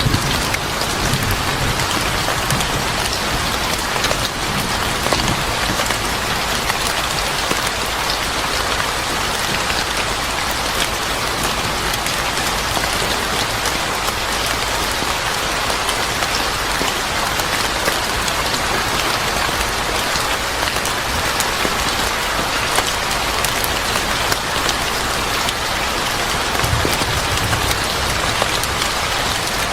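Steady rain with many individual drops tapping, at a constant level. A brief low rumble comes in near the end.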